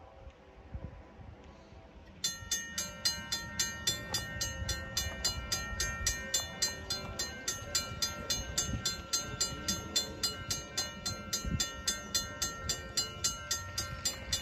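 Railroad grade-crossing warning bell starting up about two seconds in and ringing at an even pace of about three strikes a second, over a low rumble.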